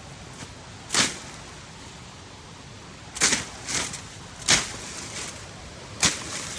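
A blade slashing through bush vegetation, giving about five sharp swishing chops at uneven intervals.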